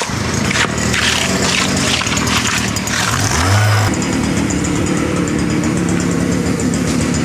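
Small gasoline engine running steadily, its sound changing abruptly about four seconds in.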